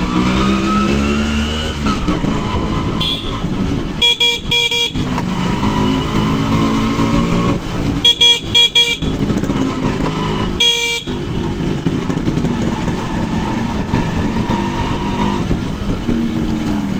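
Two-stroke motorcycle engine (a Yamaha RX100) running as the bike rides, its pitch rising over the first couple of seconds and then holding steady. A vehicle horn sounds in short beeps: three about four seconds in, a quick run of four around eight seconds, and one more near eleven seconds.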